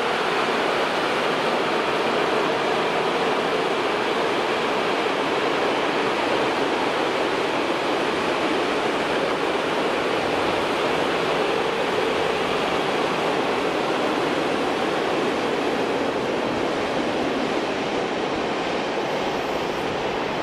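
Long freight train of open box wagons rolling past on the rails, a steady rolling noise of wheels on track that eases slightly near the end as the last wagons go by.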